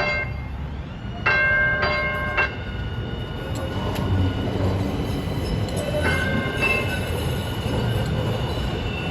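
Metro light-rail train moving with a steady rumble and a thin high whine, while its warning bell rings in a quick run of dings about a second in and again about six seconds in.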